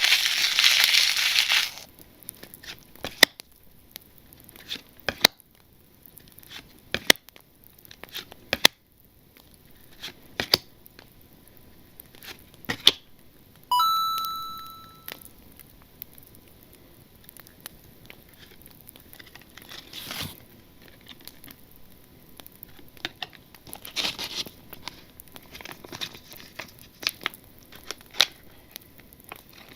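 A trading card pack wrapper being torn open in a loud rip over the first two seconds, then scattered crinkles and light ticks as the wrapper and cards are handled. About halfway a short bright ding rings and dies away over about a second and a half.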